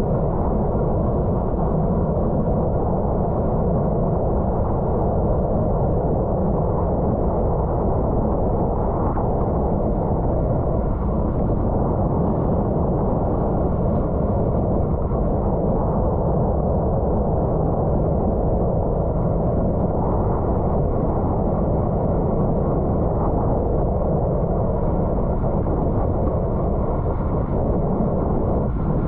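Steady wind rush buffeting the microphone of a camera on a bicycle ridden hard at racing speed, a low, even rumble with no let-up.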